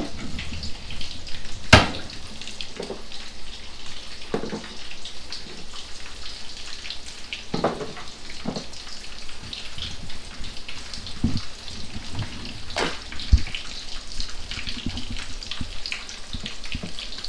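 Coated catfish fillets frying in hot oil in a pan: a steady sizzle and crackle. Several sharp knocks and clatters of a plate and cabinet being handled cut across it, the loudest about two seconds in and near thirteen seconds.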